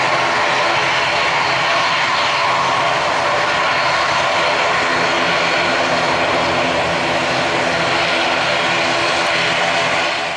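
Airbus A319-111 airliner's twin CFM56 turbofan engines running loud and steady during its landing: a continuous rushing jet noise with several steady tones held under it.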